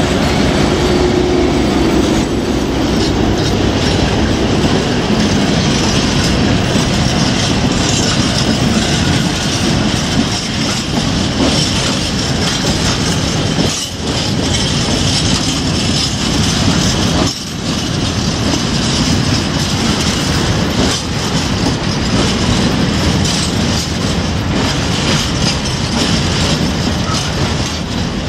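A long freight train of open coal wagons rolling past close by, its wheels clattering over the rail joints with a steady high squeal. In the first couple of seconds the diesel locomotive's engine hum fades as it moves away.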